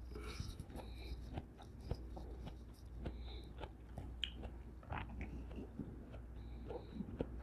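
Close-miked chewing of soft cantaloupe chunks: wet mouth sounds with small, irregular clicks and smacks. Near the end, a fork spears another piece of melon.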